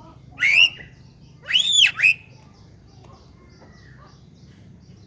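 Bird calls: a short loud call, then about a second later a longer call that rises and falls in pitch, followed at once by a short one, over faint high chirping.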